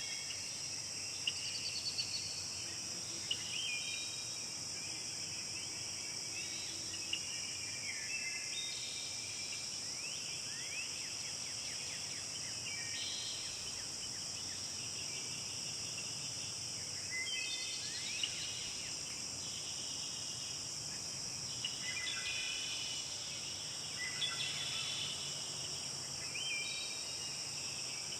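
Tropical forest insects keeping up a steady high-pitched drone, with birds calling in short whistled phrases and trills every second or two, some of them falling in pitch.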